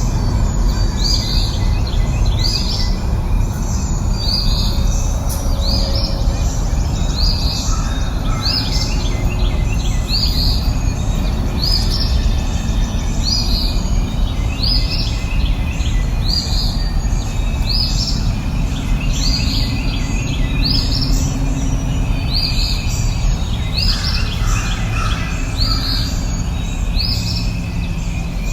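A songbird repeating a short, upward-sweeping high chirp every second or so, over a steady low rushing noise.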